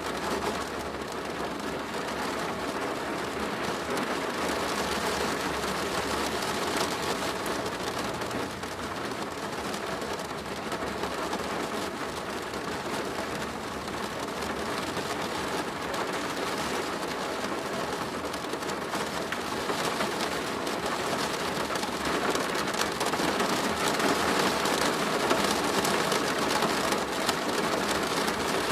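Steady rain pattering densely on a plastic roof, growing somewhat louder about three quarters of the way through.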